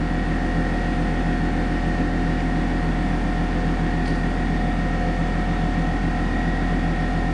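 Steady machine hum with a constant whine running unchanged throughout, the sound of a motor or fan running in the background.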